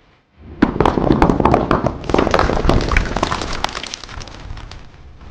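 A vehicle crash: after a brief silence, a loud burst of clattering, crackling impacts over a low rumble, which fades away over the next few seconds.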